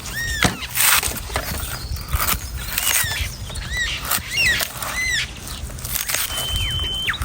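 A large knife chopping repeatedly into the hard husk of an old coconut, a run of sharp strikes. About five short high arching calls from an animal, bird-like, sound over the chopping, and a thin steady whistle-like tone comes in near the end.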